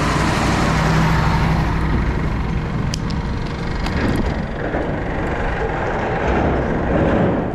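Motor vehicle engine running close by over road and wind noise; its steady low engine tone fades about three seconds in.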